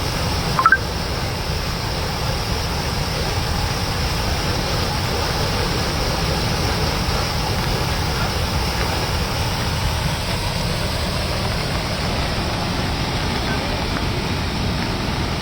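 Steady rush of water pouring out through an opened reservoir floodgate, with a brief high squeak less than a second in.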